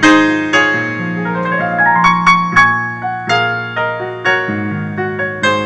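Piano playing an instrumental interlude of a slow gospel song: struck chords and single notes that ring and fade over a sustained bass line, with no voice.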